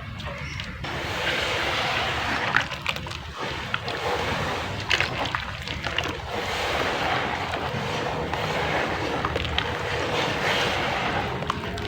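Water pouring steadily onto soft wet mud or clay, splashing and sloshing, with scattered small crackles as the clay breaks up.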